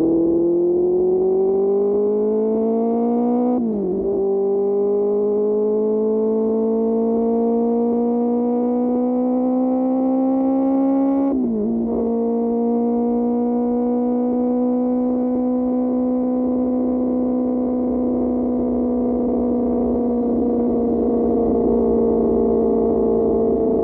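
QJ Motor SRK600's inline-four through an SC-Project exhaust, accelerating under load with two upshifts (pitch climbs, then drops sharply about 4 and 11 seconds in), then cruising at a steady, slowly easing speed.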